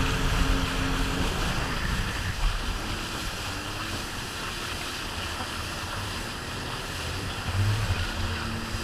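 Jet ski engine running with a steady hum that drops away about a second in, leaving wind buffeting the microphone and water noise; a fainter engine tone comes back near the end.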